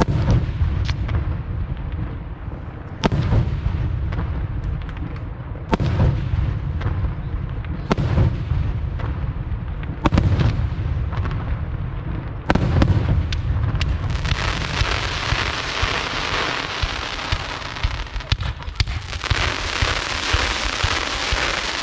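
Aerial fireworks shells bursting, a loud bang every two to three seconds, each followed by a low rolling rumble. About two thirds of the way in, a dense steady crackling takes over.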